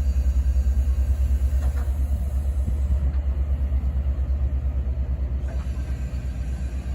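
Steady low engine rumble with a rapid, even pulse that eases off slightly near the end.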